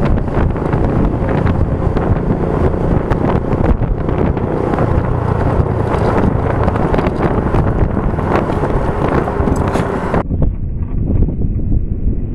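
Wind buffeting a motorcycle rider's camera microphone at speed, over the motorcycle running beneath it. About ten seconds in the sound suddenly turns duller and muffled as another riding recording begins.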